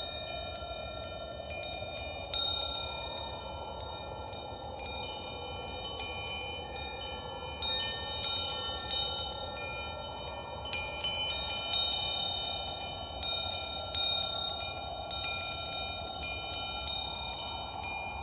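Metal wind chimes ringing, struck at irregular moments so that several high tones overlap and ring on, with the loudest strike about eleven seconds in. Beneath them runs a soft rushing sound that slowly swells and fades.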